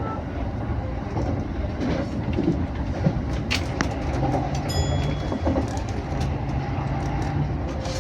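Interior sound of a Keihin-Tohoku Line electric commuter train running between stations: a steady rumble of wheels on rail with a motor hum, a few sharp clicks from the track, and a brief high tone about five seconds in.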